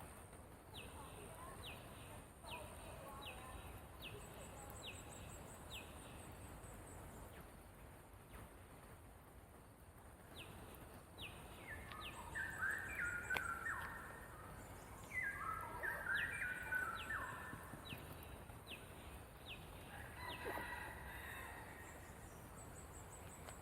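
Birds calling: one repeats short falling whistled notes, about two a second. A second, louder bird joins with runs of stepped notes about halfway through and again near the end.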